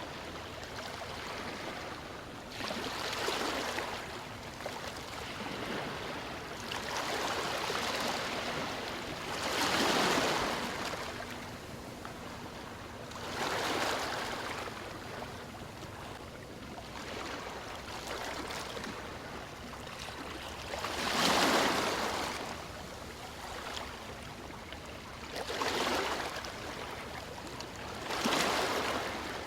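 Ocean waves breaking and washing up on a shore: a steady hiss of water with about eight louder surges, each swelling and falling away over a second or two, a few seconds apart.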